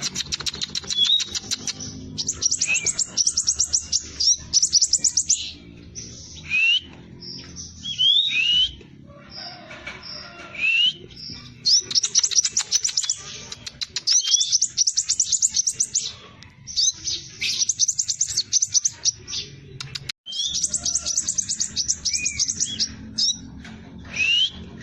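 Scarlet minivet singing in fast rolls of rapid, high chirps, broken by short rising whistles. A faint low hum runs underneath.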